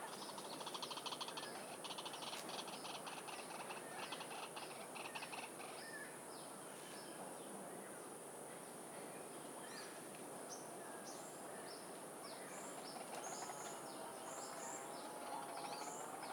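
Caged birds chirping: a fast rattling trill for the first few seconds, then many short high chirps that slide downward, with a warbling call near the end, over a steady hiss.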